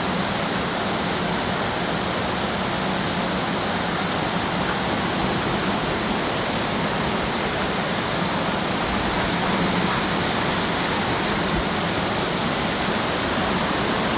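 Steady rushing of running water, an even, unchanging wash of noise.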